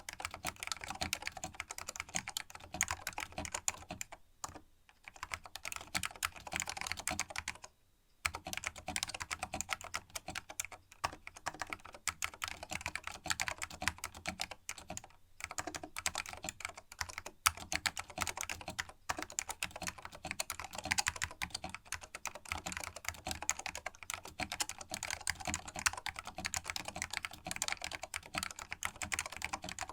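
Fast, continuous typing on a vintage Canon keyboard with linear green Alps switches whose springs have been lubed: a dense run of keystroke clicks, with short pauses about four and eight seconds in.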